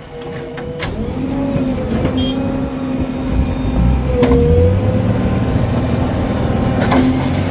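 Heavy diesel engine running and revving up, its pitch rising about three seconds in, with a few sharp knocks.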